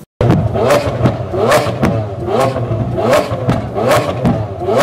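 Lamborghini Aventador's V12 engine through an Armytrix aftermarket exhaust, revved loudly while standing. About six quick blips, a little more than one a second, each rising fast in pitch and dropping back.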